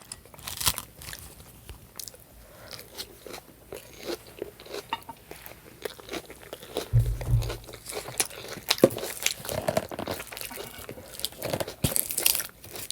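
Close-miked chewing and biting of food, with many small crunches and mouth clicks and a brief low thump about seven seconds in.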